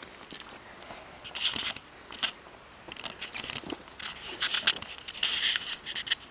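Irregular rustling and crackling, short hissy scrapes and ticks coming in uneven clusters, busiest in the second half.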